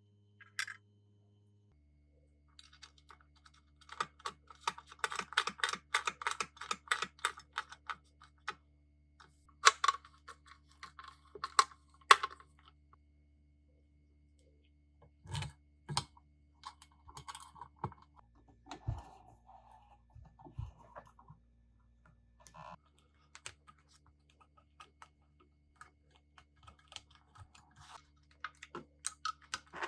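Light clicks, taps and small rattles of parts being handled during work on an old nail gun, in dense flurries early on and sparser later, over a faint steady hum.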